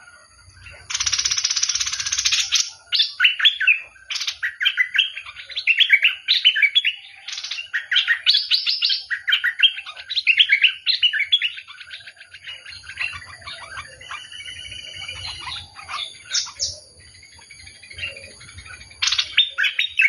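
A bulbul singing. About a second in there is a harsh chattering burst, then a long run of quick, bright whistled notes and phrases.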